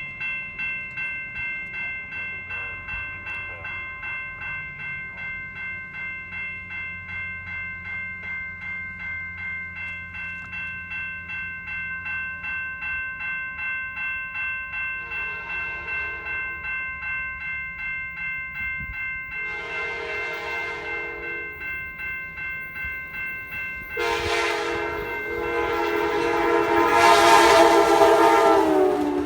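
A bell rings steadily, about two to three strikes a second. An Amtrak train's horn sounds two long blasts past the middle, then a long blast near the end that grows louder as the train approaches and drops slightly in pitch at the very end.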